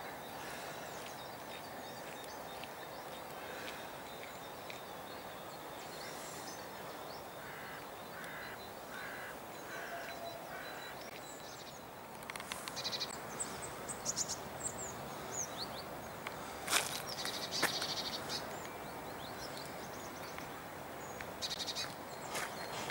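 Birds calling over a steady outdoor background hum: a series of five short, evenly spaced calls about a third of the way in, then higher chirps mixed with scattered sharp clicks and knocks through the second half.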